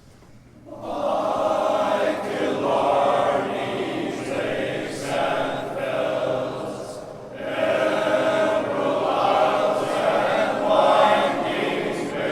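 Glee club choir singing in full harmony, coming in about a second in and pausing briefly between phrases near the middle.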